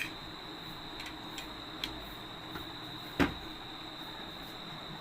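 Two sharp clicks or knocks, one at the very start and one about three seconds in, over a faint steady background with a thin high-pitched whine.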